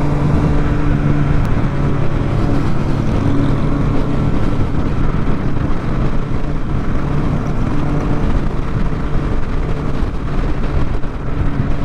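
Triumph Street Triple RS three-cylinder engine running steadily on the move, mixed with a heavy rush of wind noise. The steady engine note fades under the wind after about two and a half seconds.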